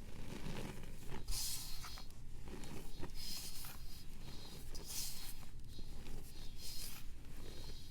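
A dry block of pressed powder being scraped and crumbled by hand, a series of irregular dry, scratchy strokes about a second apart.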